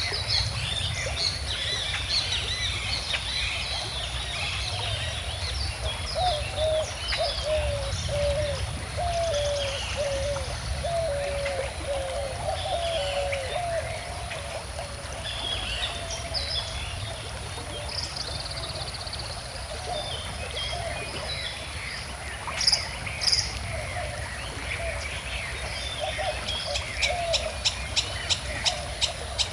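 Many birds singing and chirping over the steady rush of a quiet river. A lower warbling call runs for several seconds about a quarter of the way in, and a quick repeated call of about three notes a second starts near the end.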